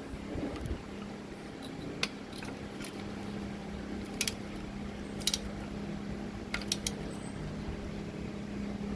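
Irregular sharp metallic clicks and clinks, about half a dozen, from a spanner and socket worked on an engine's oil switch as it is tightened, over a steady low hum.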